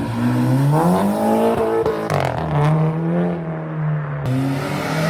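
A modified car's engine accelerating hard as it leaves: the pitch climbs, drops sharply about two seconds in as it shifts gear, then climbs again and holds before falling away near the end.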